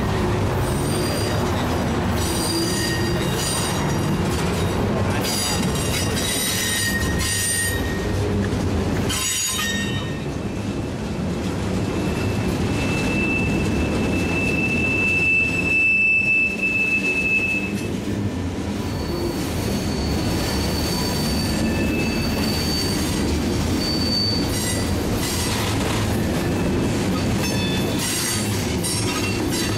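Freight train rolling on the track, its wheels squealing against the rails in high-pitched squeals that come and go over a steady rumble. One long, steady squeal holds from about twelve to eighteen seconds in.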